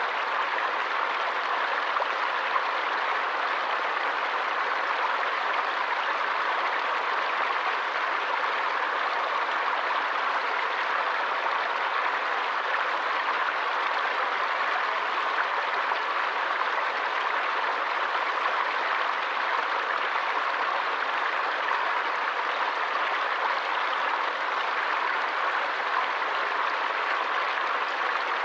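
Forest stream running steadily, water rushing and splashing over rocks with an even, unbroken hiss.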